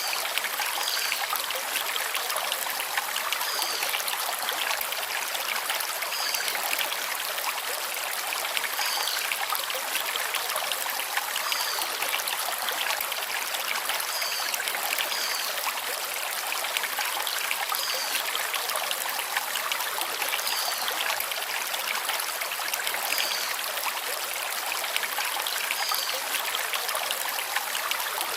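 Forest stream flowing steadily over river stones, a constant rushing trickle. A bird repeats a short high call every two to three seconds.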